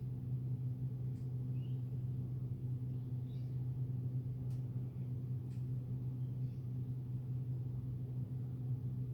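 Steady low hum, with a few faint, short, high chirps from a young butcherbird scattered through it and the odd faint click.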